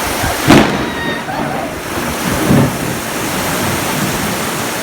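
Heavy storm rain pouring steadily, with a sharp, loud thunderclap about half a second in and a second, lower thump about two and a half seconds in.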